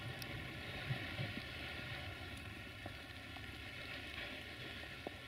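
Faint, low rumble of an electric-hauled passenger train of double-deck coaches rolling away, slowly fading, with a few light clicks of wheels on the track.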